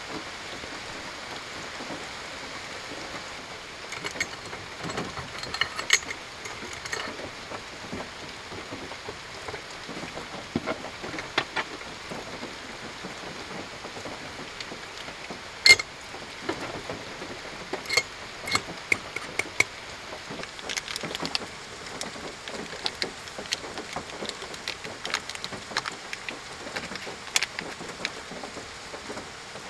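Steady rain falling, with scattered sharp clicks and light ringing clinks on top; one click about halfway through is the loudest.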